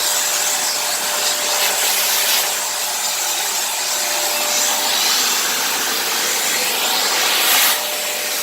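Kenmore vacuum cleaner running steadily, with a faint constant whine under the rush of air. The rush swells briefly every second or two as the vacuum is worked over the floor.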